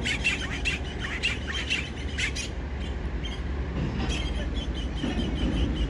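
Small birds chirping in quick, repeated short notes, busiest in the first couple of seconds, over a steady low rumble.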